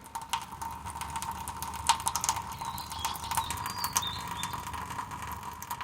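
Rain, with drops ticking irregularly on a hard surface over a steady hum, and a bird chirping a few times midway.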